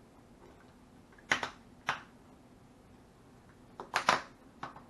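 Small plastic beads clicking and tapping against a plastic bead board and tray as they are handled: a few sharp, separate clicks, with a quick run of three about four seconds in.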